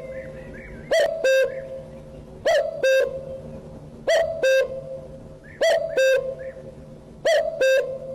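A bird repeating a loud two-note hooting call, a short rising note followed by a held note, about once every one and a half seconds, five times over. Faint chirps from other small birds are heard between the calls.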